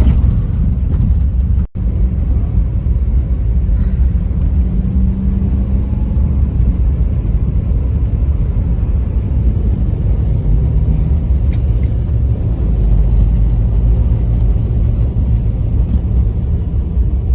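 Steady low rumble of a car in motion, road and engine noise heard from inside the cabin, briefly cutting out about two seconds in.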